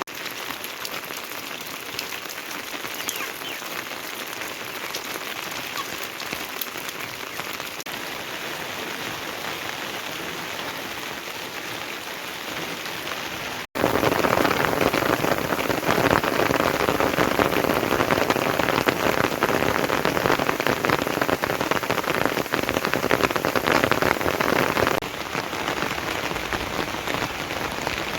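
Heavy rain falling as a steady hiss. About halfway through it cuts abruptly to a louder, fuller downpour, which drops back to a softer hiss near the end.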